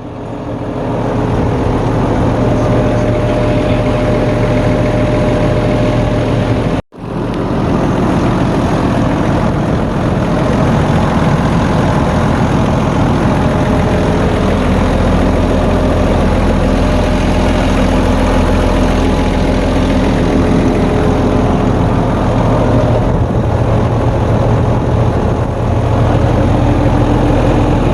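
Åkerman EC230B excavator's 6-cylinder Volvo turbo diesel idling steadily, running smoothly after the air was bled from its fuel filter housing and injector lines. The sound fades in at the start and cuts out for an instant about seven seconds in.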